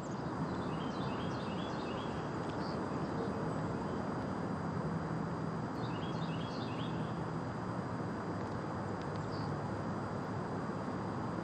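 Steady outdoor background noise with a small bird chirping a quick run of high notes twice, about a second in and again around six seconds in.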